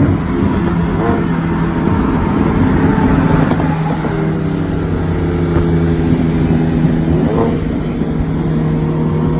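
Turbocharged car engine at full throttle in a race pull. Its pitch climbs slowly, with a quick jump about seven seconds in, over a steady low drone.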